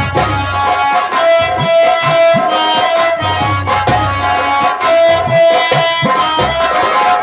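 Instrumental music of a nautanki ensemble: a sustained melody instrument over rhythmic drums, whose low strokes swoop in pitch, with no singing.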